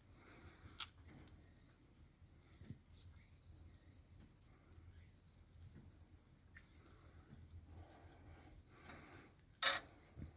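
Faint chorus of insects chirping: rapid high-pitched pulse trains that repeat over a steady high whine. One sharp knock sounds near the end.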